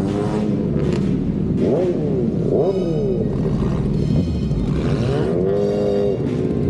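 Motorcycle engine running under a steady rumble, its pitch rising and falling twice as the throttle is opened and closed, with background music.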